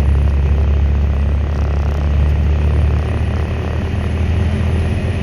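Volvo A25D articulated dump truck's diesel engine droning steadily inside the cab while the fully loaded truck drives off, a deep low hum that is quite noisy. The drone eases slightly about three seconds in.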